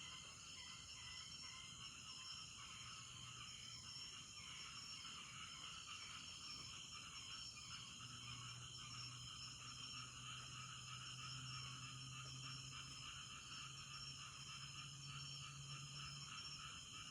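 Faint night chorus of insects and frogs calling in a dense, steady pulsing, with a low steady hum underneath that grows a little stronger about halfway through.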